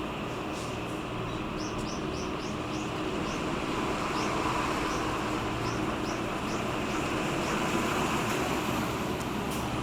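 Steady engine drone of a passing pusher tug, swelling a little past the middle, over a constant wash of noise. A small bird chirps in a quick run of short high notes, about three a second, around two seconds in, then a few more times later.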